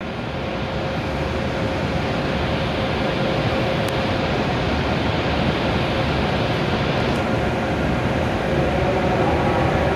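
W7 series Shinkansen train at the platform, a steady rumble and hiss of the train and its equipment, with a faint held tone that fades out about seven seconds in.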